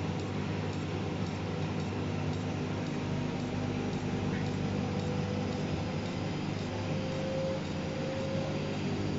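Washing machine running steadily, its motor giving an even hum with a faint higher whine over a bed of noise.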